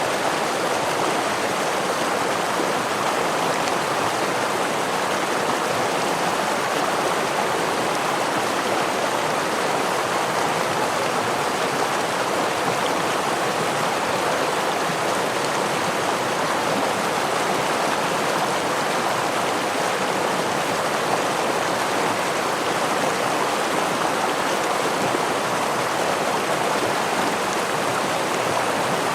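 Forest stream and small waterfall: water rushing and splashing in a steady, even hiss with no breaks.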